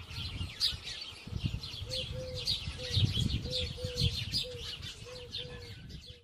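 Many small birds chirping, short quick chirps overlapping, with a short lower note repeating two or three times a second from about two seconds in and a low rumble underneath.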